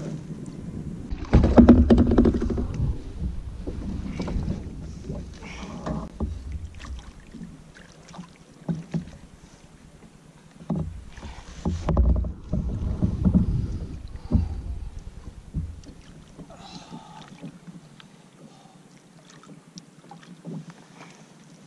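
Out on the water in a fishing kayak: wind buffeting the microphone in gusts, mixed with knocks, clicks and rattles of gear being handled against the hull.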